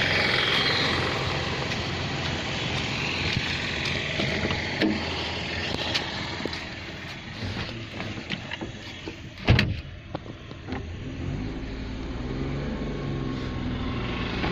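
Car driving, with engine and road noise. Scattered clicks build to one loud knock about nine and a half seconds in, and a steady engine tone follows toward the end.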